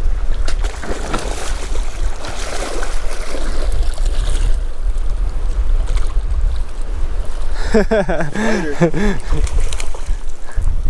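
Steady low rumble of wind buffeting the microphone over the wash of a flowing creek. A person's voice sounds briefly about eight seconds in.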